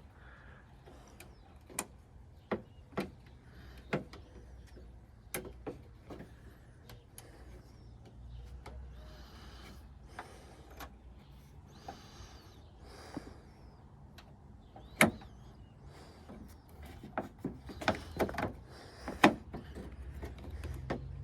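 Scattered sharp clicks and knocks of metal parts being worked inside a car door while a replacement door handle and latch are fitted, with faint scraping in the middle and a quick run of clicks near the end.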